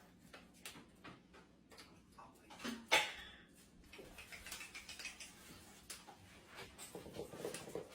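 A parrot's beak chewing and working at its cage, making scattered clicks and taps with a louder crack about three seconds in.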